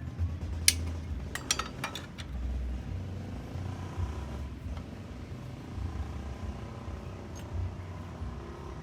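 A vehicle engine running steadily at low speed with a low rumble. Several sharp clicks or knocks come in the first two seconds.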